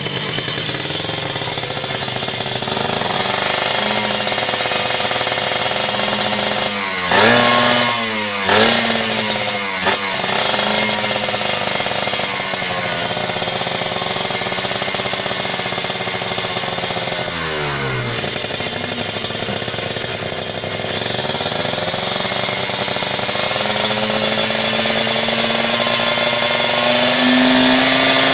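Kawasaki Ninja 150 RR's two-stroke single-cylinder engine idling through a Cobra stainless aftermarket exhaust, with quick throttle blips about seven and eight and a half seconds in and another around seventeen seconds, the idle climbing higher near the end.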